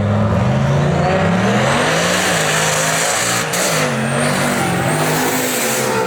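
Drag-racing cars launching and accelerating hard down the strip, their engine pitch climbing and then dropping back at several gear shifts, with a high rising whine above the engines.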